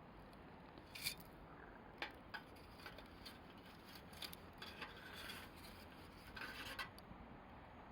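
Wood campfire burning quietly, giving off scattered sharp crackles and pops, with a couple of brief hissing, rustling stretches about four and six seconds in.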